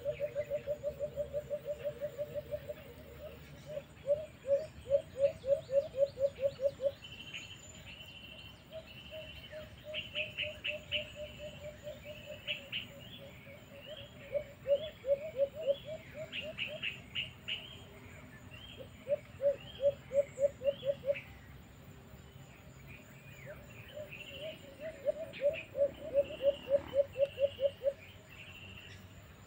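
Birds calling: several loud trains of rapid, low-pitched pulsed notes, each lasting a few seconds, with higher chirps and short trills over them.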